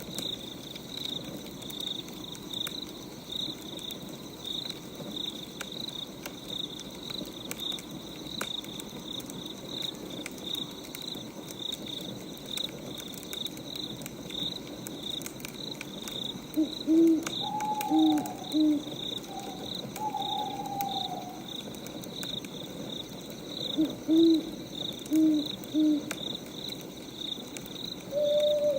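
Night ambience: crickets chirping steadily at about two to three chirps a second, with an owl giving two groups of three low hoots in the second half, over faint scattered crackles of burning firewood.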